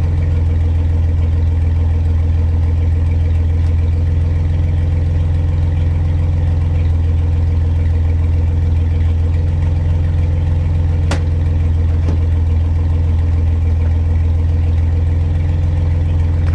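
Truck engine idling steadily, a low even hum, with two light clicks about eleven and twelve seconds in.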